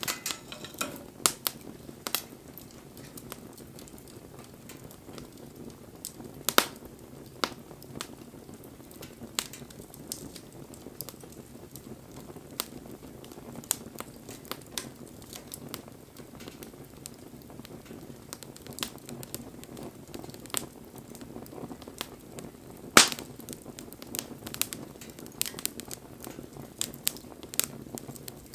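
Wood campfire burning and crackling: scattered sharp pops over a low steady rush of flame, with two louder pops, one about six seconds in and one about three quarters of the way through.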